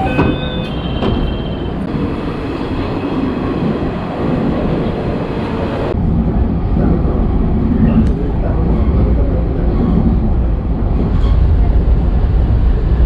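Train running on the rails: a steady low rumble that changes abruptly about six seconds in and becomes louder and deeper.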